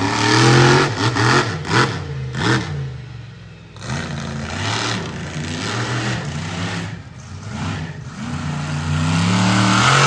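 Monster truck's V8 engine revving hard and dropping back over and over, its pitch climbing steadily near the end, with a couple of sharp knocks about two seconds in.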